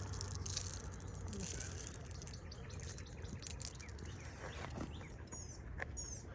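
Light rustling and scattered clicks, with a run of short, high, down-slurred bird chirps repeating about twice a second starting near the end.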